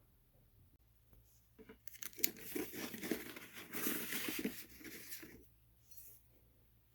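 Crinkling and rustling of something being handled at close range, a dense run of small crackles that starts about two seconds in and lasts about three and a half seconds.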